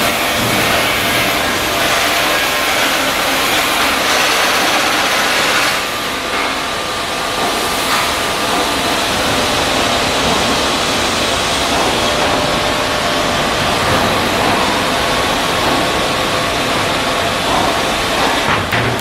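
Loud steady machinery noise: a dense hiss with a few faint steady tones, its highest part easing slightly about six seconds in.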